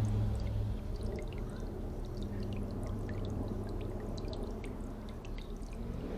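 Water splashing and dripping in a garden bird bath as dunnocks bathe: many small, scattered drips and splashes over a steady low rumble.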